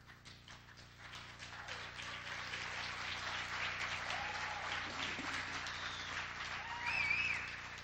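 Audience applauding, building up over the first couple of seconds, with a few whoops from the crowd.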